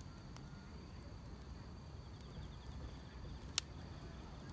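Crickets chirring in a steady high drone over a low fire rumble, with one sharp pop of burning firewood about three and a half seconds in.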